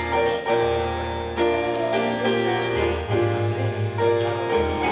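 Church keyboard music: held chords over a steady bass line, moving to a new chord about every second.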